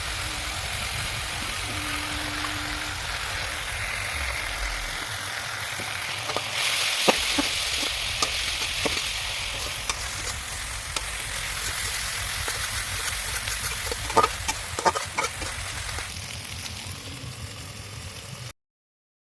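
Chopped onion and tomato with turmeric sizzling in hot oil in a kadai, stirred now and then, with a few sharp knocks of the spoon against the pan. The sizzle gets louder about six seconds in and cuts off abruptly near the end.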